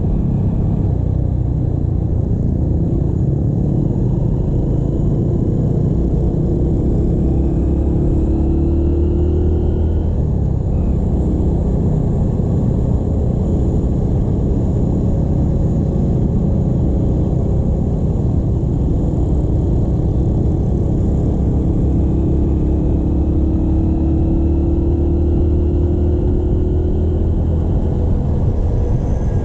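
Motorcycle on the move: a steady rumble of engine and wind on the microphone, with the engine note slowly rising twice as the bike gathers speed.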